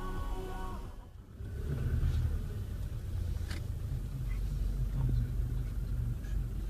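Low, steady rumble of a car on the move, engine and road noise. Music cuts off about a second in.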